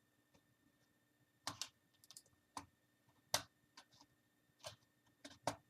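Plastic snap clips of an Acer Aspire 5750 laptop's screen bezel clicking as the bezel is pried loose. It is a string of short, sharp clicks at irregular intervals, the loudest about three seconds in.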